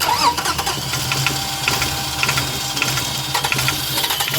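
Starter motor cranking a 2005 Toyota Highlander's engine, which turns over in an even, pulsing rhythm without catching: a crank-no-start condition.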